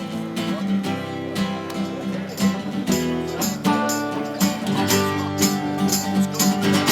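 Music led by a strummed guitar playing chords in a steady rhythm.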